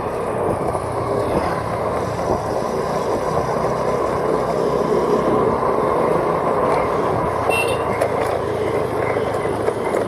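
Steady road and engine noise from a moving vehicle on the road, with a brief high-pitched chirp about three quarters of the way in.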